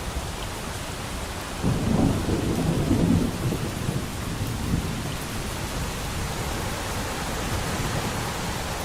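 Steady rain with a roll of distant thunder. The thunder comes in about one and a half seconds in, is loudest for a couple of seconds, then dies away under the rain.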